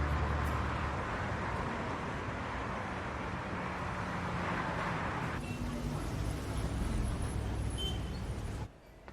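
Steady road-vehicle noise, a car's engine and tyre hiss with a low hum underneath, which lightens about five seconds in and cuts off abruptly near the end.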